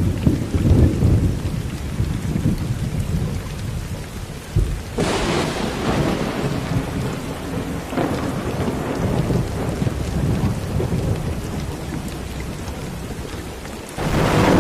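Steady rain with low rumbling thunder in the first few seconds; about five seconds in the rain hiss turns brighter all at once, and near the end it jumps louder again.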